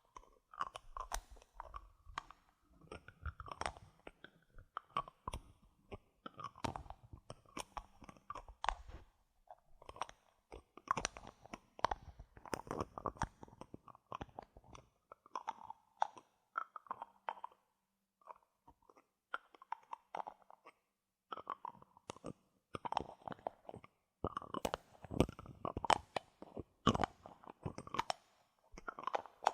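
Bottle caps handled close to the microphone: quick irregular clicks, taps and crunchy rustles, with a short lull about two-thirds of the way through.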